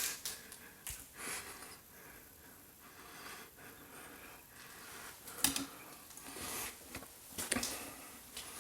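Soft scattered knocks and rustles with breath-like hissing in a small room; the sharpest knock comes about halfway through.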